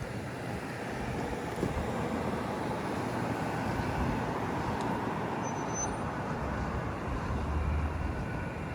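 City street traffic: a steady wash of engine and tyre noise from passing vehicles, with a low rumble swelling near the end as a vehicle goes by.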